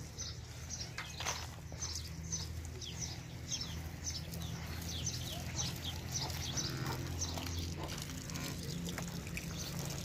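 Small birds chirping over and over in quick short notes, over a low steady hum.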